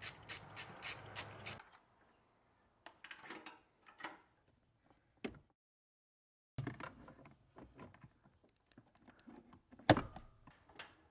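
Clicks, light rattles and knocks of a throttle cable and its fittings being handled and worked into a car's engine bay, starting with a quick run of evenly spaced clicks. The sound drops out completely for about a second midway, and one sharp knock comes near the end.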